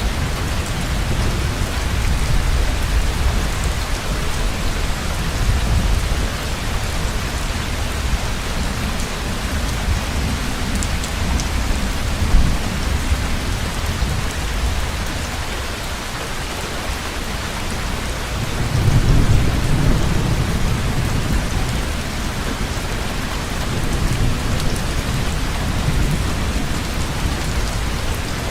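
Heavy rain pouring steadily, with rolling thunder rumbling low beneath it. The thunder swells into a louder roll about two-thirds of the way through, then eases.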